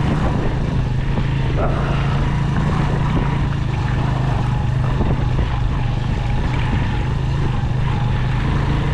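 Motorcycle engine running steadily under way, a constant low drone with no change in pace.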